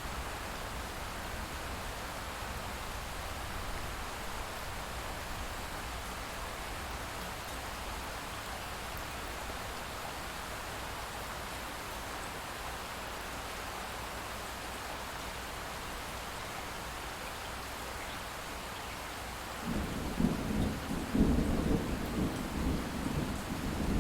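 Steady light rain, with a low rumble of distant thunder starting near the end and rolling on.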